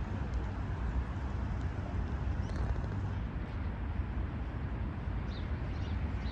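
Steady low background rumble of outdoor ambience, with a few faint high chirps about two and a half seconds in and again near the end.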